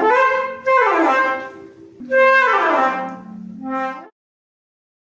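Clarinet playing short phrases of quick notes that run downward in pitch, then cutting off suddenly about four seconds in.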